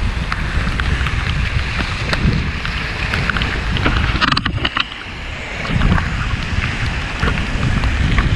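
Wind buffeting the microphone of a camera on a moving bicycle, with a steady hiss of tyres on the road and scattered small clicks and rattles. The wind eases briefly about five seconds in.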